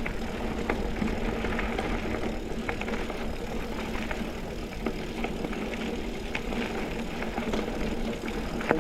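Mountain bike rolling along a dirt double-track trail: steady tyre and drivetrain noise with scattered light clicks and rattles from the bike.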